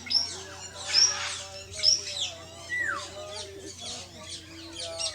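Parrots chattering and chirping, with repeated sharp, high calls, the loudest three coming about a second apart near the start, over faint background voices.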